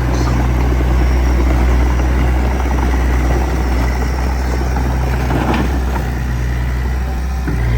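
Heavy-equipment diesel engine running steadily with a low, even drone and mechanical clatter, with a short knock a little over two-thirds of the way through.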